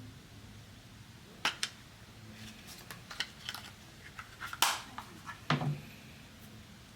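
Irregular light clicks and taps of small hard objects being handled: a quick pair of clicks about a second and a half in, then a scattered run of clicks, the loudest a short scraping click near the middle, followed by a duller knock.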